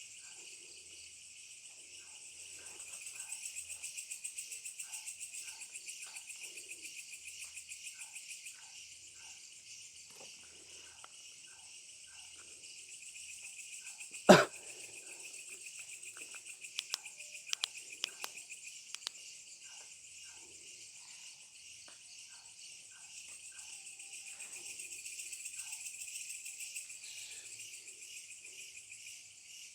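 Steady night chorus of crickets and other insects chirring, swelling in waves of rapid pulsing. About halfway through, a single sharp knock cuts in, followed a few seconds later by a handful of light clicks.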